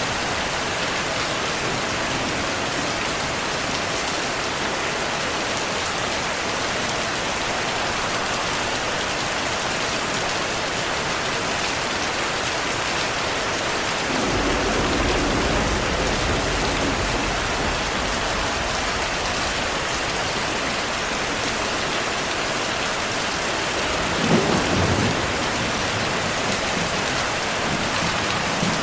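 Heavy, steady rain falling, with distant thunder rumbling low about halfway through for a few seconds and a sharper thunder roll about five-sixths of the way in.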